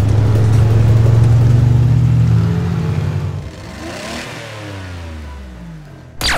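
Cartoon monster-truck engine sound effect, a loud, steady low engine note that fades away about three and a half seconds in. Around four seconds a sweep of pitches rises and falls, and a sudden loud sound starts right at the end.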